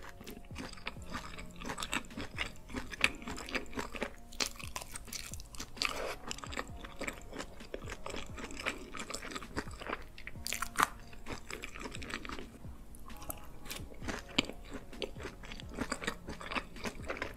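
Close-miked mukbang ASMR chewing of cheese-sauce-covered fries, with many small irregular crunches and mouth clicks.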